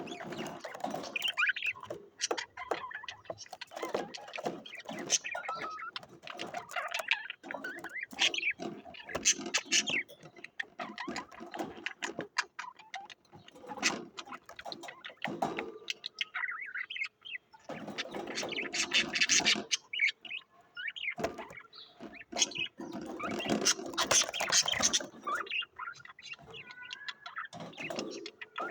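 Small cage birds chirping and chattering in irregular bursts, with short clicks and rustles among the calls.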